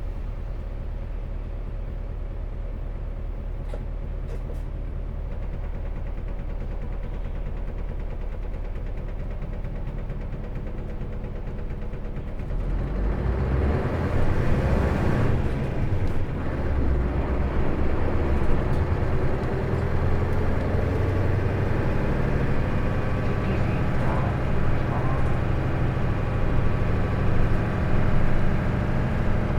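Diesel engine of a KL-LV380L1 route bus (Isuzu Erga) heard from inside the cabin, running low and steady, then about twelve seconds in the bus pulls away and the engine gets louder, rising in pitch through the gears.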